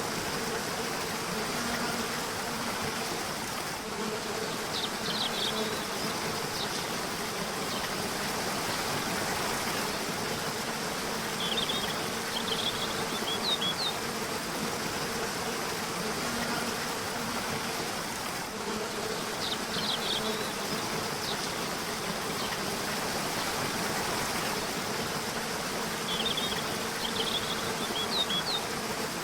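A river flowing steadily, with short bursts of high bird chirps every several seconds and a low buzzing hum that comes and goes.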